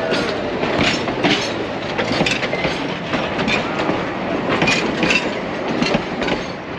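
Durango & Silverton narrow-gauge passenger cars rolling past, their wheels clacking over the rail joints in uneven clusters over a steady rumble.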